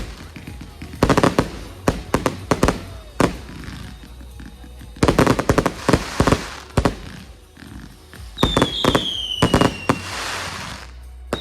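Fireworks going off in clusters of sharp bangs and crackles. About eight seconds in, a whistling firework gives a long whistle that slowly falls in pitch.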